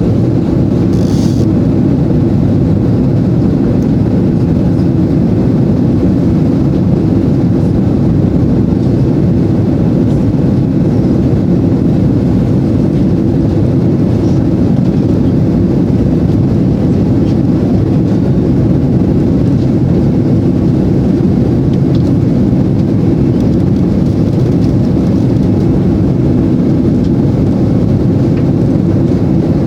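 Airbus A330 jet engines at high thrust: a loud, steady low rumble that neither rises nor falls.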